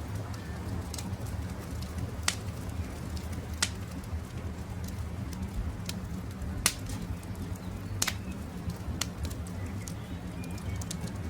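Wood campfire crackling over a steady low rumble of flames, with scattered sharp pops and four louder snaps. Faint short bird chirps come in near the start and again near the end.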